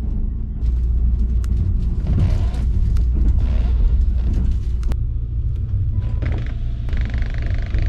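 Steady low rumble of the Kintetsu Hinotori express train running, heard inside the passenger car, with a few short sharp clicks over it.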